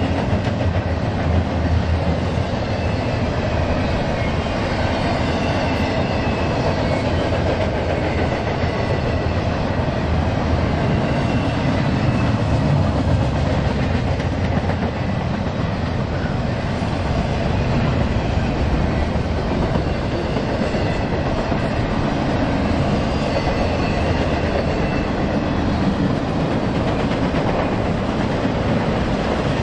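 Union Pacific double-stack container freight train rolling steadily past, its wheels running on the rails.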